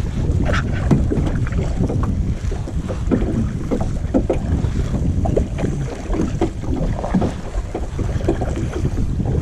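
Wind buffeting the microphone in a steady low rumble, with small irregular splashes and laps of water against a kayak.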